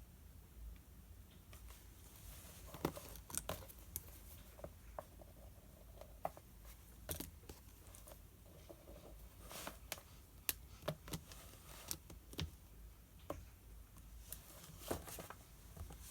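Paper rustling and pages being turned, with scattered light clicks and taps in between; the loudest rustles come about three, ten and fifteen seconds in.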